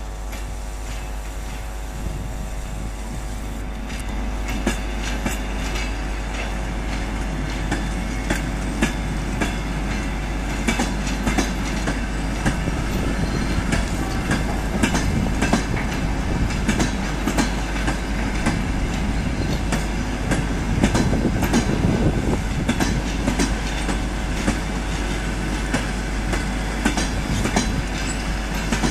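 Passenger coaches rolling slowly behind a ChME3 diesel shunting locomotive, wheels clicking irregularly over rail joints, starting about four seconds in, over a steady running hum.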